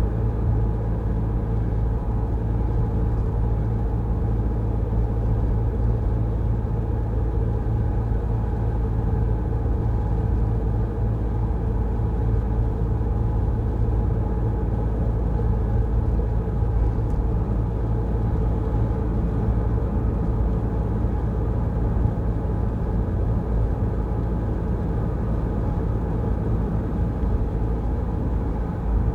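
Steady low road and engine rumble heard from inside a moving car, with an even engine hum and no changes in pace.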